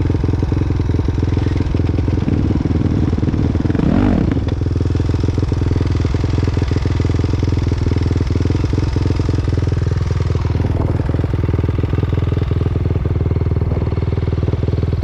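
Dirt bike engine running steadily, with a brief rise and fall in pitch about four seconds in.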